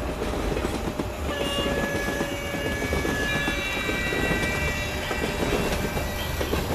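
Train running with a rapid rattling rumble, a horn sounding over it in several steady tones that change about a second in and again about three seconds in.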